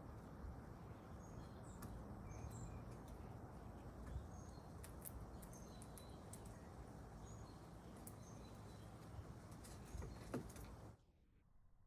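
Outdoor background with a steady low rumble and scattered short, high bird chirps, plus a few sharp clicks; it all cuts off suddenly near the end.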